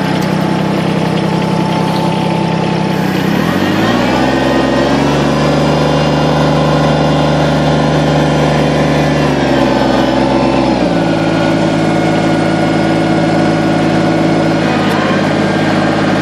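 Kubota BX2360 compact tractor's three-cylinder diesel engine running steadily. Its note drops about three and a half seconds in, holds lower, and rises back up about eleven seconds in.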